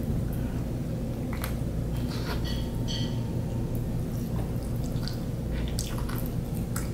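Close-up mouth sounds of someone chewing a soft steamed red bean bun: scattered wet smacks and squishy clicks over a steady low hum.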